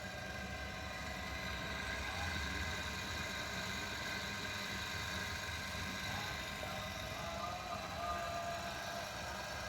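A 1 HP single-phase electric motor rated at 1400 rpm running steadily on a test bench: a constant low hum with several steady higher whining tones.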